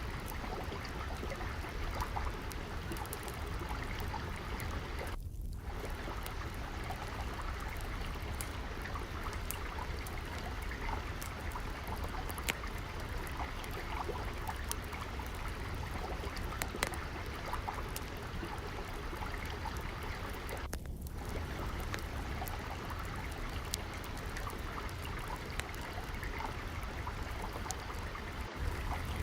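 Steady trickling, flowing water with a low rumble beneath it, overlaid with scattered small crackles and pops of a wood fire. The water sound drops out for a moment twice.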